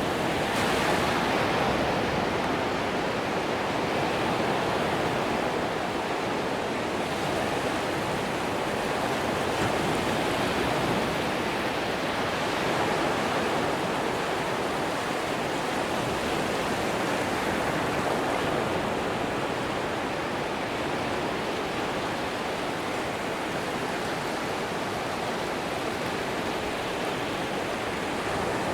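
Atlantic Ocean surf on a sandy beach: a steady wash of waves, swelling a little about a second in.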